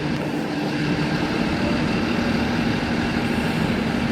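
Steady mechanical drone of an idling engine with a constant low hum, over the general din of a railway station.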